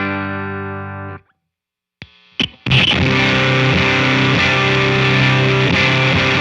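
Electric guitar through a JHS Kilt overdrive pedal in fuzz mode, with both gain switches on, into a Walrus Audio ACS1 amp simulator. A distorted chord rings out and is cut off about a second in. After a short gap and a couple of pick noises, a heavily fuzzed riff starts near the halfway point and keeps going.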